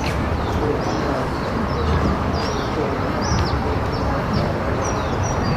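Small birds chirping repeatedly in short, high, quick calls over a steady low background rumble.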